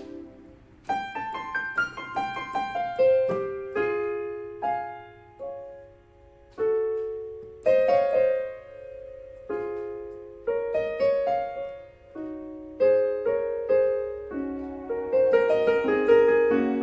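Casio CT-S1 portable keyboard playing a slow melody with chords. After a quiet second, a quick run of falling notes gives way to held notes that fade after each strike.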